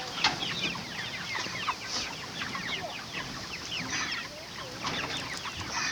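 A flock of Cornish cross meat chickens calling: many short, falling clucks and chirps overlapping.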